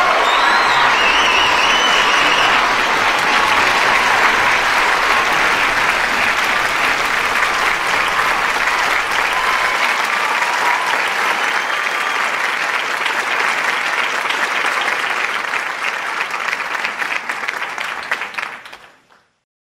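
A large audience applauding steadily, with a few cheers in the first seconds; the applause cuts off abruptly near the end.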